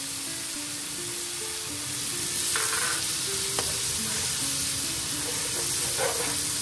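Curry powder paste with onions frying and sizzling in oil in a nonstick wok while a metal spoon stirs it, with light scraping as it moves through the pan. Soft background music plays underneath.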